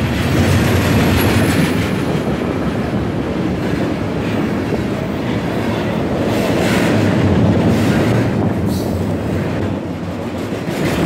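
Cars of an intermodal freight train rolling past at close range: a steady, loud rolling noise of steel wheels on the rails.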